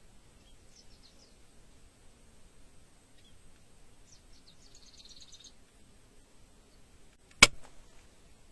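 Small birds chirping faintly in two short bouts over a quiet outdoor background, then a single loud, sharp snap about seven seconds in, followed by a softer second click.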